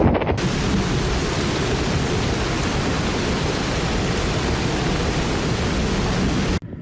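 Hurricane wind and driving rain heard as a steady, even rushing noise that cuts off suddenly near the end.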